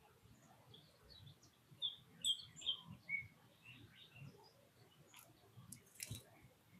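Wild birds giving short, faint chirps, in a cluster about two seconds in, with a couple of sharp clicks near the end.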